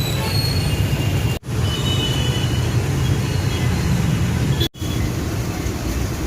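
Steady low rumble of passing road traffic with scattered faint high squeaks; the sound cuts out abruptly twice for a split second.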